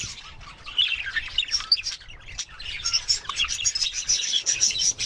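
Budgerigars chattering: a dense stream of short, high chirps and warbles, with a brief lull about two seconds in and busier chatter near the end.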